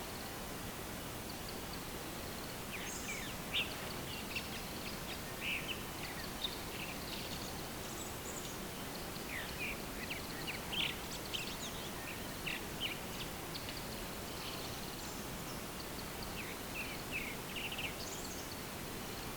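Small birds chirping and twittering in short, scattered calls over a steady outdoor hiss.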